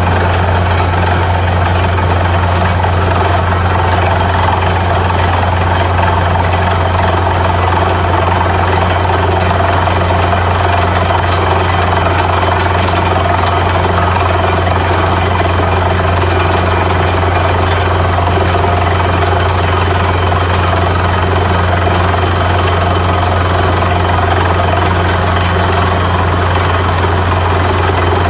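Truck-mounted borewell drilling rig running steadily, a loud, unchanging low drone with a rushing machine noise over it.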